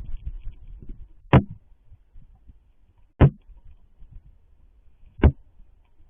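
Three sharp knocks about two seconds apart, over faint low rumble.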